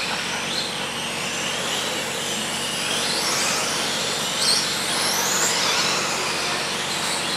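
Several radio-controlled racing trucks running together, their motors whining in overlapping high pitches that rise and fall as they accelerate and slow, over a steady noise of tyres and running gear.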